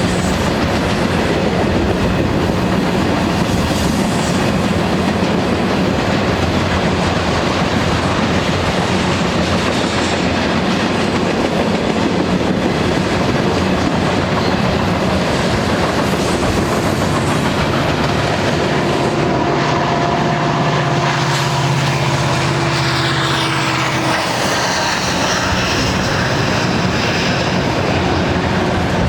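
Union Pacific freight train rolling past, its cars' wheels clicking steadily over the rail joints. A steady hum joins in for a few seconds about two-thirds of the way through.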